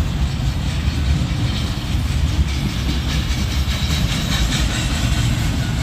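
Kansas City Southern container freight train rolling past, a steady low rumble of cars with wheels clattering on the rails.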